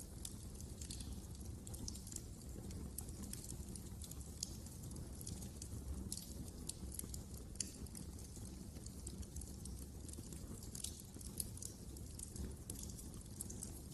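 Wood fire in a fireplace crackling, with frequent small irregular pops over a low steady rumble of burning.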